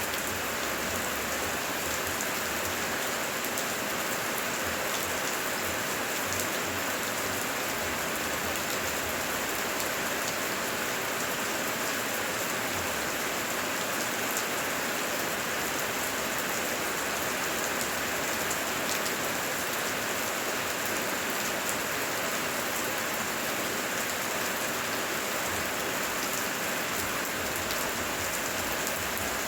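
Heavy rain falling steadily: a dense, even hiss with faint separate drop ticks, and no thunder.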